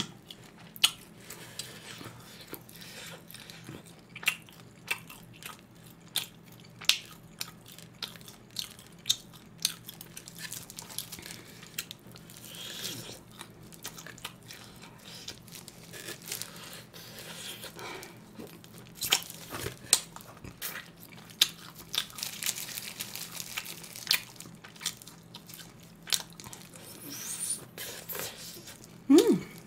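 Close-miked chewing and biting as pork rib meat is gnawed off the bone, with many short, sharp mouth clicks.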